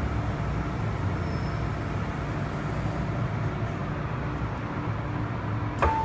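MTR Island Line M-Train running into the station and slowing, a steady low rumble heard from inside the car. Right at the end a sharp clack sounds and a two-tone beeping begins.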